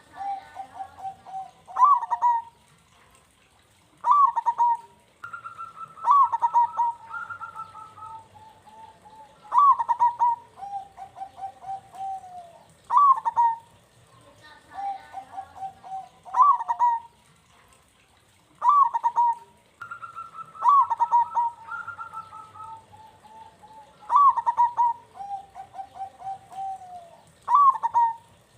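Zebra dove (perkutut) singing its cooing song over and over. Each phrase opens with a loud note that falls in pitch, then trails off in a run of quick, softer, lower coos, and repeats about every three to four seconds. Twice, a higher coo runs alongside the trailing notes.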